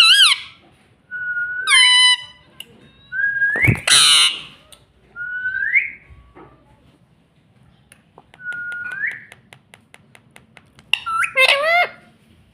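Indian ringneck parrot whistling and calling: four short rising whistles a few seconds apart, between shrill screechy calls at the start, about two seconds in and in a burst near the end. A sharp click about four seconds in, and a run of quick even ticks shortly before the final calls.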